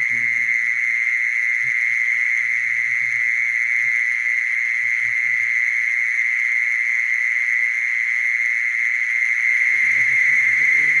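Mole cricket singing: one continuous, steady, high trill that does not break or change pitch.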